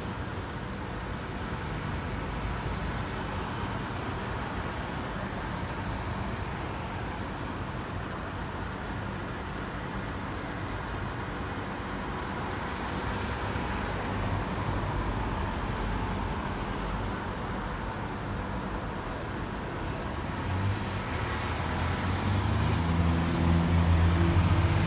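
Steady road traffic noise with a low rumble. Near the end the engine of one vehicle grows louder, as if it is passing close.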